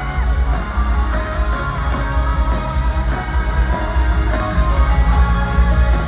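Loud live concert music from the stage sound system, a band song with a heavy, pulsing bass.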